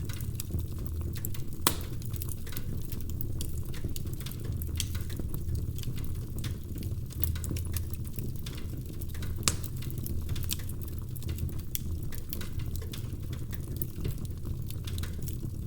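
Logs burning in a fireplace: a steady low rumble of the fire with frequent irregular crackles and snaps, and a louder pop about two seconds in and another past nine seconds.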